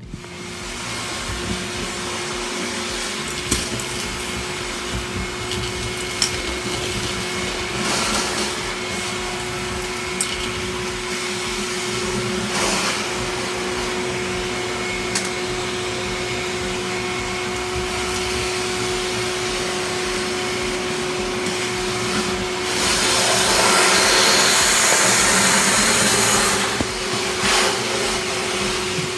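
A vacuum cleaner running steadily while dryer-vent lint is cleared, with a few sharp knocks and a louder stretch of rushing air about three-quarters of the way through.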